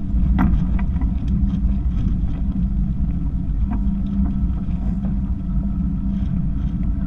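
Catamaran's engine running steadily under way, a low, even drone.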